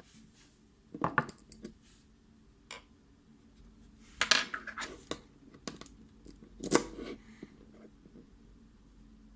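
Small metal lock parts and tools clinking and scraping, the handling of a Mul-T-Lock MT5+ lock, in three short clusters of sharp clicks with a few single ticks between.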